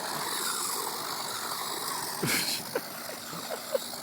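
Team Losi radio-controlled short-course truck running fast, its motor whine falling in pitch. There is a brief sharp noise a little over two seconds in.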